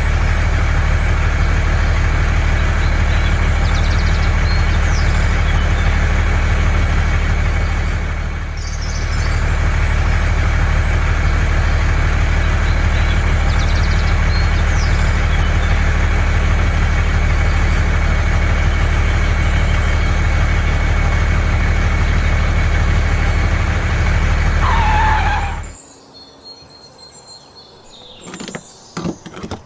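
Engine running steadily with a low, even hum, with a brief dip about a third of the way in, then cutting off suddenly near the end, followed by a few light clicks.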